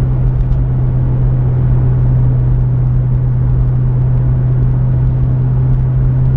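Pontiac Firebird's engine and drivetrain holding a steady cruising speed, a constant low drone that neither rises nor falls, over tyre and road rumble, heard from inside the car.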